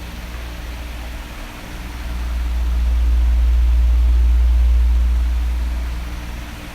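Oscillating electric fan blowing with a steady whoosh. A low rumble of moving air swells from about two seconds in, then eases off near the end.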